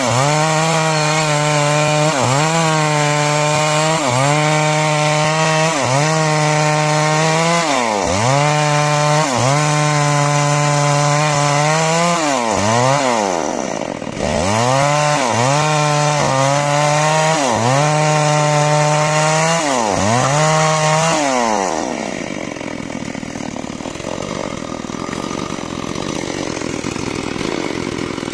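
Two-stroke chainsaw ripping lengthwise through a timber beam. The engine pitch sags and recovers about every second and a half as the chain loads in the cut. Some seven seconds before the end it drops back to a quieter, rougher sound, then picks up again at the very end.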